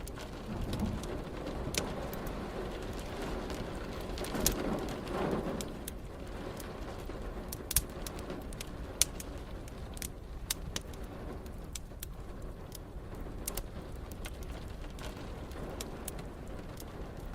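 Wood fire crackling, with sharp pops scattered through, over a steady hiss of rain. A low rumble swells briefly about four to five seconds in.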